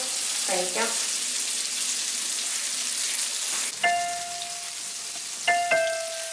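Chicken pieces sizzling as they shallow-fry in butter and oil in a pan. From about four seconds in, two slow piano notes of background music ring out over the quieter sizzle.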